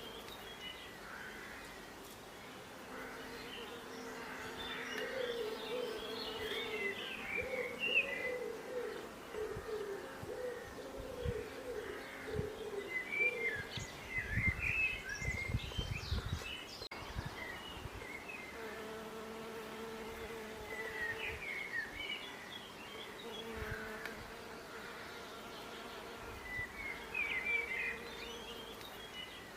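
Bees buzzing in a wavering drone that fades in and out, with birds chirping in short scattered bursts over it. A brief low rumble about halfway through.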